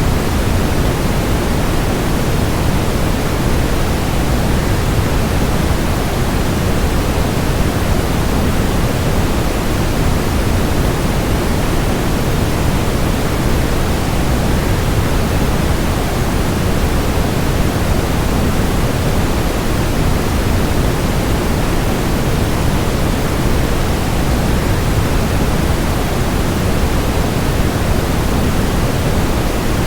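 Steady, unchanging rushing noise, strongest in the low end: a waterfall sound blended with white noise.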